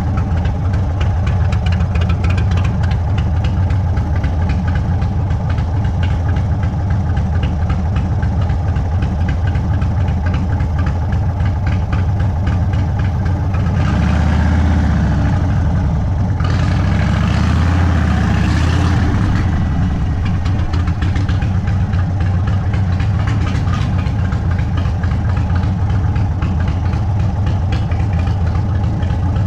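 Indian Sport Chief's Thunderstroke 116 V-twin running through an open Sawicki Speed exhaust, a steady low exhaust note at cruising-in-traffic speed. About halfway through it grows louder for a few seconds, with an added hiss.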